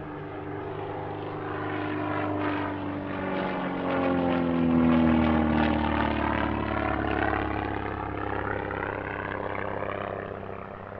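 Single-engine SIAI-Marchetti SF.260 light aircraft making a flypast, its 260 horsepower Lycoming piston engine and propeller growing louder, peaking about five seconds in, then fading. The engine note falls in pitch as the plane passes.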